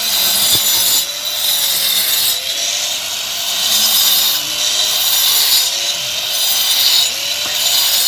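Angle grinder cutting into a masonry wall, making zigzag cuts inside a marked groove outline to break it up for chiselling. The motor's pitch dips and recovers about once a second as the disc bites and is drawn along.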